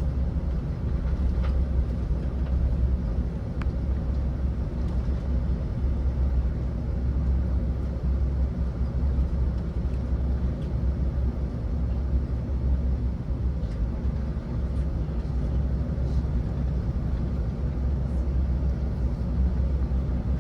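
Steady low rumble inside an Airbus A380 cabin as the airliner rolls along the ground after landing, with a few faint clicks.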